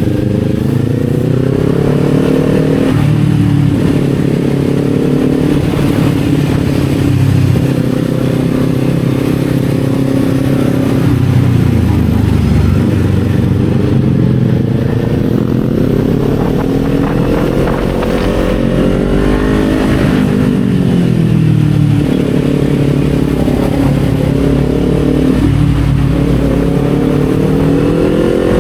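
Kawasaki Z400's parallel-twin engine running under load, its pitch climbing with revs and dropping sharply several times as the rider shifts gears, with one slower fall and rise near the two-thirds mark.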